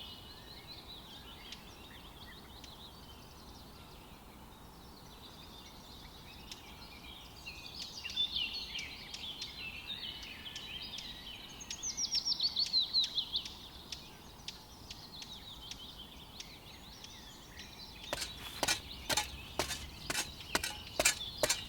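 Small birds singing and chirping, with a fast trill of quick falling notes about halfway through. Near the end a run of sharp taps or knocks starts, several a second.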